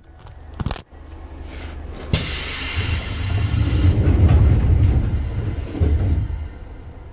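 Seibu 2000 series electric train heard from on board: a sharp click, then a sudden hiss of air about two seconds in, lasting about two seconds, and a low rumble that swells and dies away.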